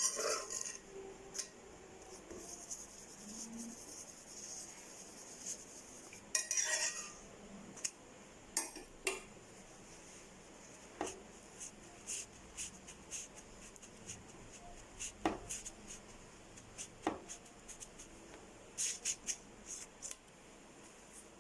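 Scattered light clinks, taps and scrapes of kitchen utensils and cookware, irregular, with a longer scraping rustle about six seconds in.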